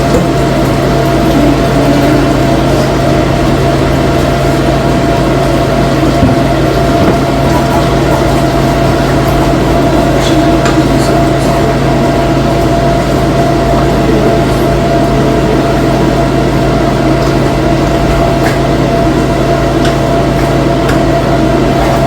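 Steady, loud mechanical hum with a constant low drone, unchanging throughout, with a few faint clicks.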